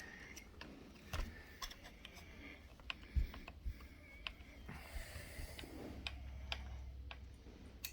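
Scattered light clicks and taps of hands and small tools handling parts while fitting the exhaust hanger on a nitro RC truck, irregular, with a couple of sharper knocks.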